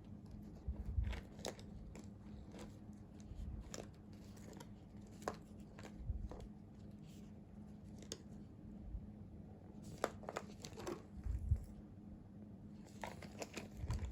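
Gift packaging being handled and opened by hand: paper and plastic wrapping crinkling and tearing, with scattered small clicks and a few soft thumps.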